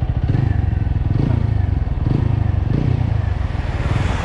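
TVS Apache RTR single-cylinder motorcycle engine running hard, its revs climbing and dropping about three times in quick succession.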